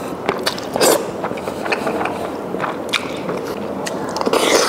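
Close-miked eating sounds: short crisp crunches, roughly two a second, of chewing crunchy pickled radish with black bean noodles, with a longer noisy burst near the end.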